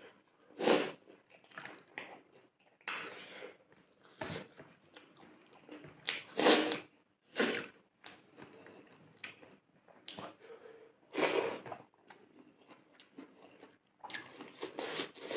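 A person chewing mouthfuls of rice and fish curry eaten by hand, heard as irregular short wet bursts of mouth sounds, with the squish of fingers mixing rice on a plate.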